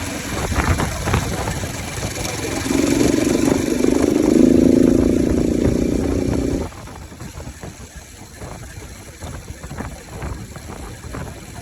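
Bajaj Pulsar RS 200's single-cylinder engine running with its air filter removed, giving a raw, open intake sound. About two and a half seconds in it is held at higher revs for about four seconds, then cuts off suddenly and drops back to a quieter, uneven idle.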